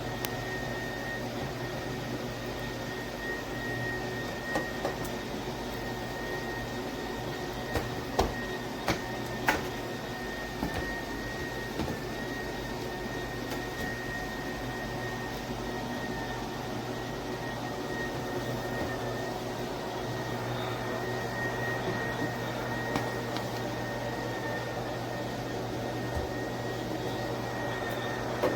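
Cordless dual-motor electric spin mop running steadily, its motors giving a constant hum with a thin high whine. A few sharp clicks and knocks come in the early part.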